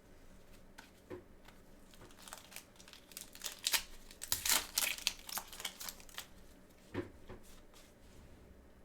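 Packaging crinkling and tearing as a trading card box is unwrapped by hand: short irregular rustles and crackles, busiest in the middle.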